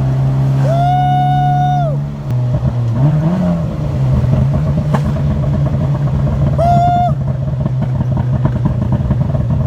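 VW Golf mk1's 2-litre engine with a straight-pipe exhaust, running under way. The drone breaks off a little after two seconds, then the engine revs up again about a second later. A high steady horn-like tone sounds for over a second near the start and again briefly about seven seconds in.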